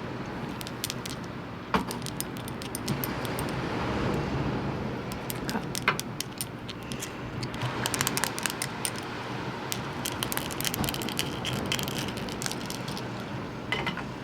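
Small hard objects clinking and rattling in scattered bursts of quick light clicks, over a steady rush of ocean surf.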